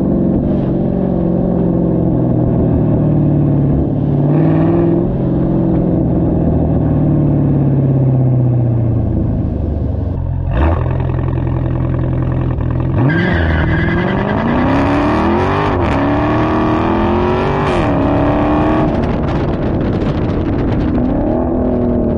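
Dodge Charger Scat Pack's 392 HEMI V8 through an MBRP 3-inch race cat-back exhaust, driving. The engine note sinks as it slows, there is a sharp crack about halfway through, then it accelerates hard with the pitch climbing and dropping back at each upshift before settling to a cruise.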